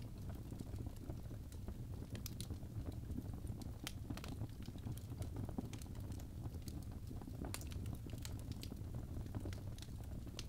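Birch log fire burning in a fireplace, with irregular sharp crackles and pops over a steady low rumble of flames.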